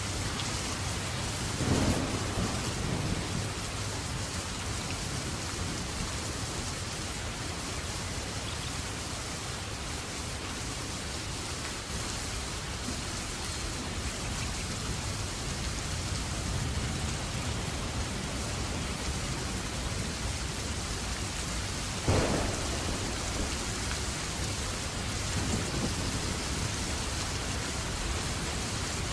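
Steady rain falling, with thunder: a clap about two seconds in and another, sharper one about 22 seconds in, each rumbling off over a second or two, and a fainter rumble a few seconds later.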